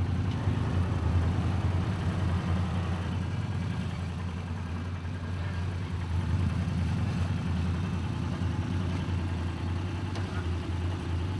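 Formula Offroad car's engine idling steadily at close range, a low even hum with a slight uneven pulse. The engine is damaged: it is leaking oil heavily and pushing water out, a sign of water getting into its oil.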